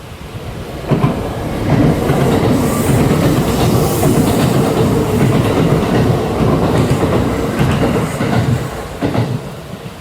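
Kintetsu electric train passing at speed, its wheels clacking over the rail joints. It comes in sharply about a second in and fades near the end, with a few clusters of joint clacks as the bogies go over.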